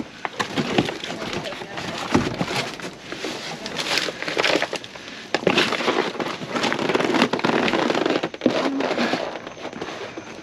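Irregular crackling and rustling of produce, bags and boxes being handled and packed, with many short clicks and knocks, and indistinct voices underneath.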